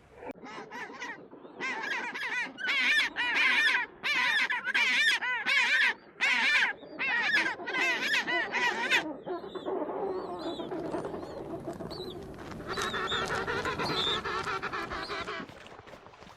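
Waterfowl calling: runs of loud, repeated nasal honks or quacks for about nine seconds, then softer, overlapping calls from several birds.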